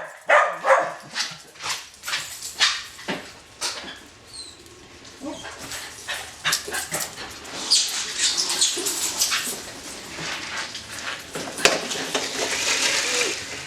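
Several dogs barking and yelping in short, irregular outbursts, thinning out briefly in the middle and growing busier again towards the end.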